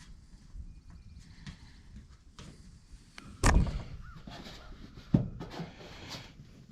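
Knocks on ribbed metal roofing during a leak repair: a loud thump a little over three seconds in that dies away quickly, then a sharp click about two seconds later.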